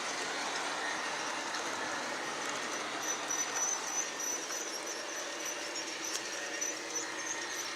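G scale model train running steadily on its track, a constant rolling hum with a faint high motor whine.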